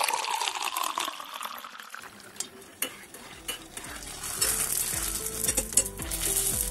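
Fuchka (panipuri) shells deep-frying in hot oil in a wok, sizzling with scattered clicks and growing louder about two-thirds of the way through. A whoosh fades out over the first second or two, and soft background music comes in about halfway.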